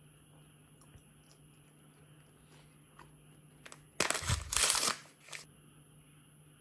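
A short crinkling crunch, about a second long, about four seconds in, from sweets and their packaging being handled, with a smaller crinkle just after and faint light clicks before it.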